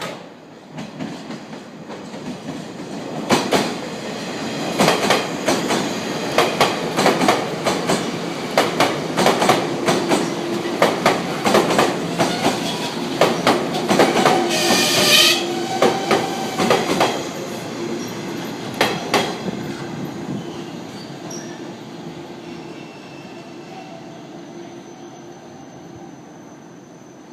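JR 485-series electric train passing, its wheels clattering over the rail joints in rapid clicks that build up, peak and then fade away. A brief high wheel squeal comes about halfway through.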